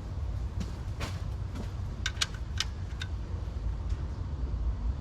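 Metal hand tools clinking while sockets are swapped and tried on bolts: a few sharp, ringing metallic clicks about two seconds in, over a low steady rumble.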